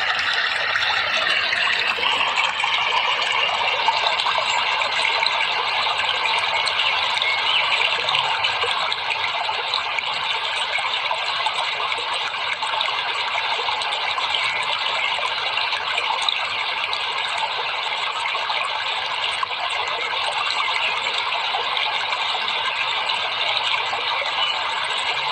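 Steady rushing of running water, with a thin steady high tone coming in about two seconds in.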